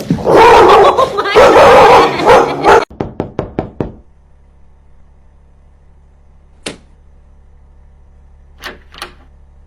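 A dog barking loudly for about three seconds, then a quick run of about six sharp knocks, followed by a few isolated faint clicks near the end.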